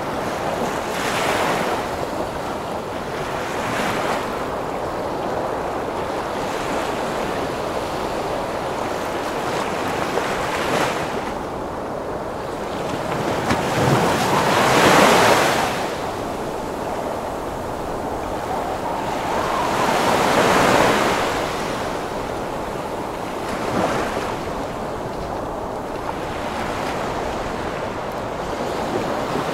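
Heavy ocean waves surging and breaking under a steady storm wind, a continuous rushing roar that swells with each wave every few seconds. The biggest surge comes about midway, and another follows a few seconds after it.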